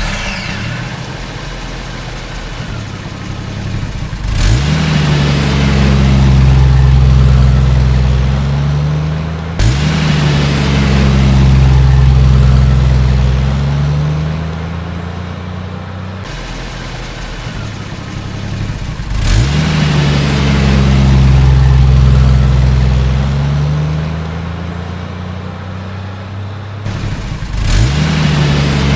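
A vehicle engine revving up and running at steady high revs, over and over. Each rev opens with a quick rise in pitch, and the sound breaks off abruptly between repeats, like a looped engine sound effect.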